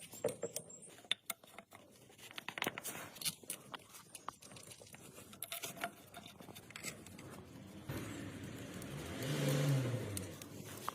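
Scattered clicks, knocks and scrapes of tools and metal parts being handled, then a steadier whirring sound that swells and fades about nine seconds in.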